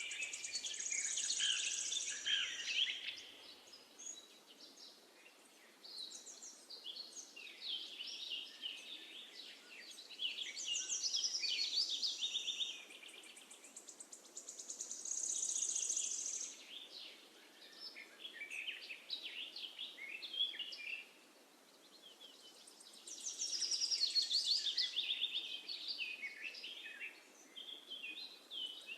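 Songbirds singing: phrases of quick, high chirping notes that come again every few seconds, over a faint steady background hiss.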